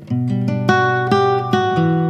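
Background music: acoustic guitar plucking a gentle run of notes that ring on, starting fresh just after the start.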